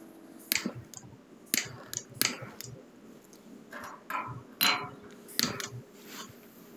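A handful of sharp, irregular clicks and clinks of hard objects, about six in all, a few trailing a brief hiss or rustle.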